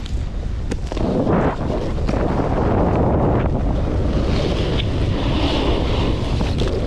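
Wind buffeting the microphone of a snowboarder riding downhill, mixed with the hiss of the snowboard sliding over snow. The rush grows louder about a second in and then holds steady.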